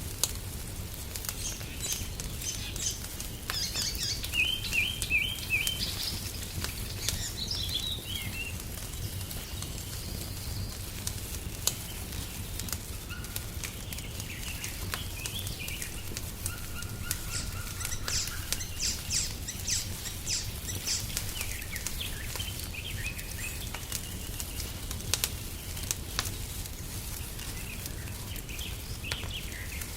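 Songbirds singing short chirping and trilling phrases over a crackling wood fire, with scattered sharp pops, the loudest a little before halfway and near the end, above a steady low rumble.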